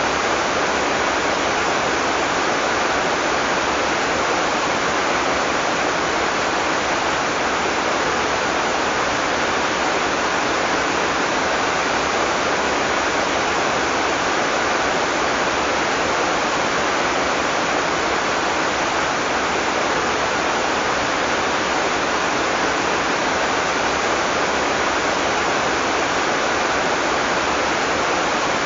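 Heavy rain falling steadily, a dense, even hiss without thunder.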